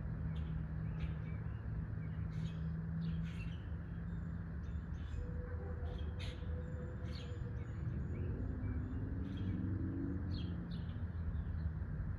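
Small birds chirping in short, scattered calls over a steady low rumble with a droning hum that wavers in pitch.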